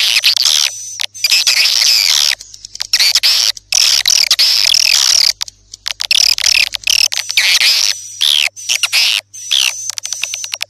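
Swiftlet calls: dense, high twittering chirps in bursts that start and stop abruptly, with a run of rapid clicks near the end.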